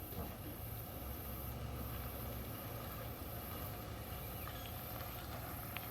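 Steady low hum of a vehicle on the move, heard from inside the cabin, with a faint constant hiss above it.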